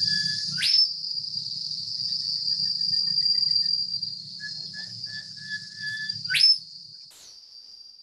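Field recording of a mangrove whistler calling: two loud, metallic, sharply rising whistles, one near the start and one about six and a half seconds in, with a run of short, quieter repeated notes between them. A steady, high-pitched insect drone runs underneath.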